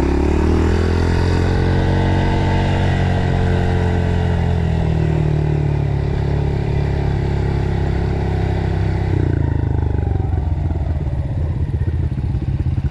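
Dirt bike engine running on a trail ride, its pitch rising a little and easing off, then about nine seconds in dropping to a lower, choppier putter as the throttle comes off.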